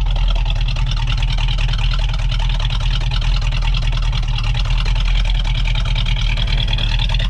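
426 Hemi V8 engine idling steadily while warming up, run so the thermostat opens and trapped air burps out of the freshly refilled cooling system.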